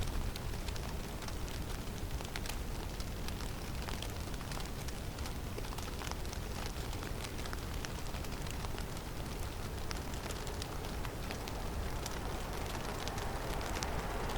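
Snowstorm in a forest: steady wind noise with a low rumble and a scatter of faint, sharp ticks throughout. A broader rushing swell builds over the last few seconds.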